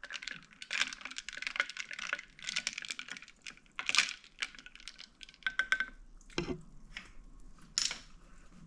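Wooden spoon stirring an iced drink in a glass, with ice cubes clinking against the glass. A rapid run of clicks for about three seconds, then a few separate knocks.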